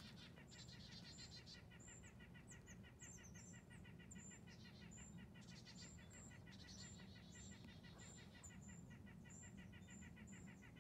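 Faint, high bird chirps repeating about twice a second over a quiet woodland background.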